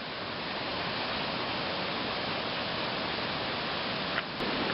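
Steady rushing of high water pouring over a small pond's outflow, swollen by heavy rain and snowmelt.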